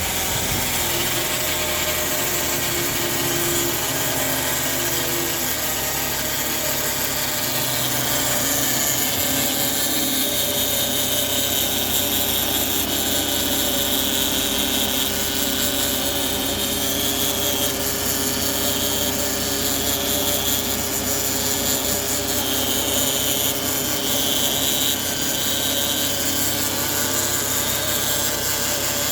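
Vehicle transmission whining steadily, several held tones over a loud even rush of running noise. The owner is asking what is wrong with the transmission to make this sound.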